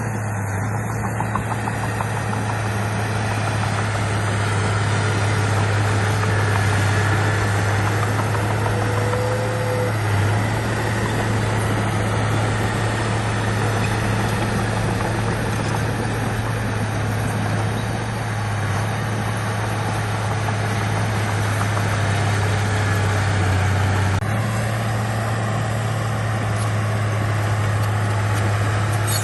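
Diesel engine of heavy earthmoving machinery running steadily with a deep drone. The engine sound changes abruptly about 24 seconds in.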